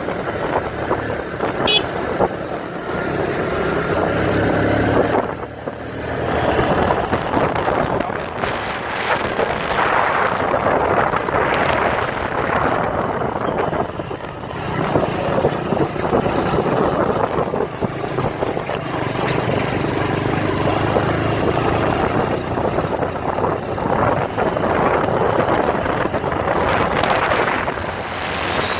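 Motorcycle engine running while the bike is ridden along, a noisy engine note mixed with wind rushing over the microphone.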